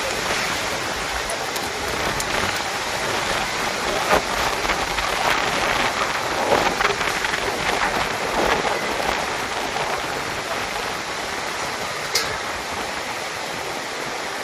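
Heavy rain pouring down in a storm, a dense steady hiss with scattered sharp taps of drops striking surfaces, and one brief sharp click about twelve seconds in.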